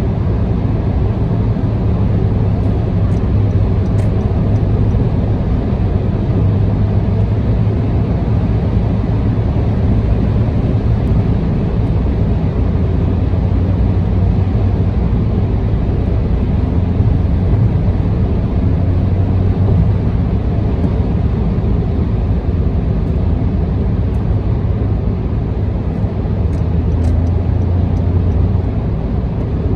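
Steady low rumble of a car cruising on an expressway, heard from inside the cabin: engine and tyre road noise, even throughout with no change in speed.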